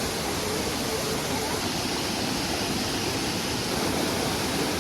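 Rushing water of a waterfall and stream: a steady, dense hiss.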